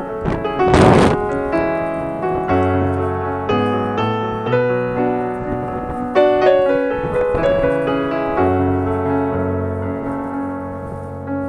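Background piano music, chords and a melody over held bass notes, with a brief noisy swell about a second in.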